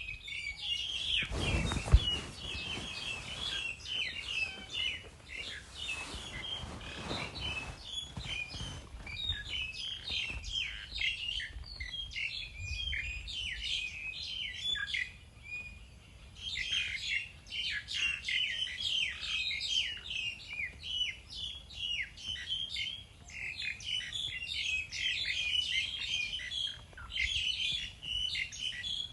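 Many small birds chirping, a dense unbroken chatter of short high chirps. A sharp thump comes about two seconds in, over a brief low rumble.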